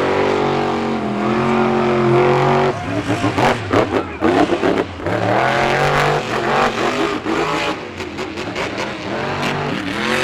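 Monster truck engines revving hard, their pitch climbing in steps; after about three seconds the sound turns choppy, with a run of sharp cracks and bangs over the engine noise.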